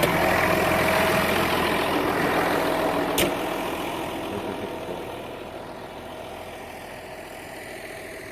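Case 5240 tractor's diesel engine idling steadily, with a sharp click about three seconds in. The engine grows quieter from about four seconds on, then holds steady at the lower level.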